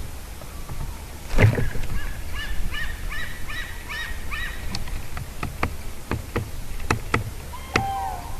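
Cranes calling in a rapid rhythmic series of honking calls, about three to four a second. A loud knock comes just before the calls, and several sharp taps follow them.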